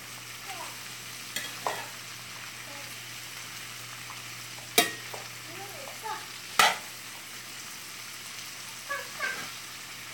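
Potato and sausage hash frying in a skillet, a steady sizzle, with two sharp knocks about two seconds apart around the middle and a few fainter clicks.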